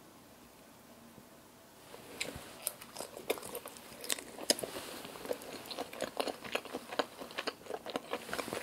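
Close-miked chewing and biting on peeled black tiger shrimp dipped in cream cheese. It is quiet for about the first two seconds, then a steady run of sharp mouth clicks follows as the shrimp is chewed.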